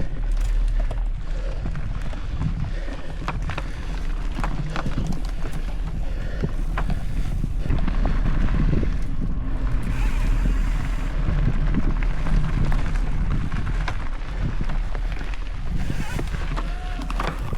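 Mountain bike riding over a dirt trail, heard from a camera on the rider: wind buffeting the microphone, a steady low rumble of tyres and many short rattles and knocks from the bike over bumps.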